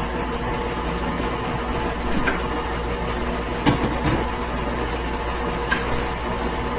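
Electric stand mixer running steadily, mixing bread dough, with a few light knocks.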